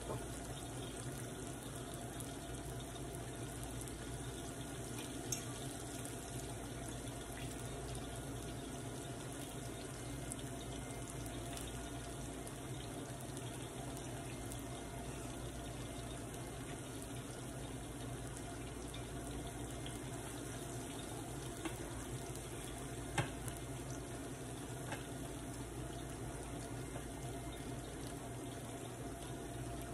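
Ripe plantain slices frying in a skillet of hot oil: a steady sizzle, with a few faint ticks scattered through it.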